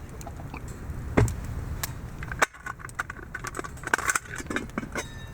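Camp cookware being handled: scattered light knocks and metallic clicks, with one sharper knock about halfway through and a cluster of small clinks near the end.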